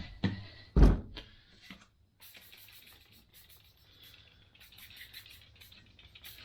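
Workshop handling sounds from the wheel and newly fitted tire. A knock at the start and a heavy thump about a second in are followed by a few light clicks and faint ticking.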